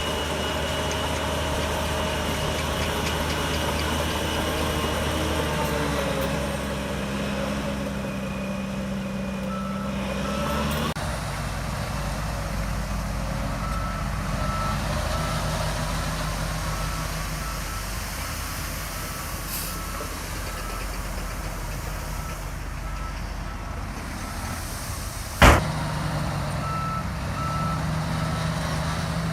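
Heavy diesel earthmoving machinery running steadily, a bulldozer and dump trucks at work. From about a third of the way in, a reversing alarm beeps at a steady, even pace. A single sharp bang near the end is the loudest sound.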